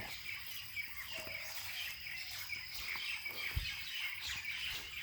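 Outdoor ambience of small birds chirping over a steady high insect hum, with one soft low thump about three and a half seconds in.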